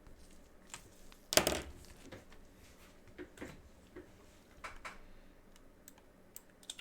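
Small clicks and taps from trading cards, their plastic holders and card boxes being handled on a table, with one louder knock about a second and a half in.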